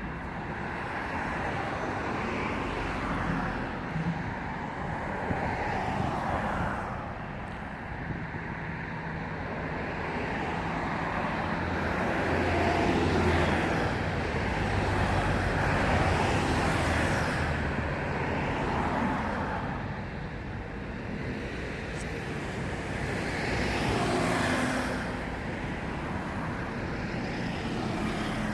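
Road traffic noise: vehicles passing, the sound swelling and fading several times over a continuous rush.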